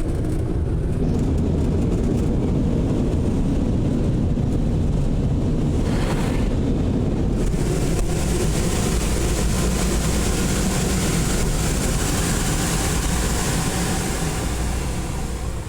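Automatic car wash machinery running, heard from inside the car: a steady low rumble, joined about seven seconds in by a loud, steady rushing hiss.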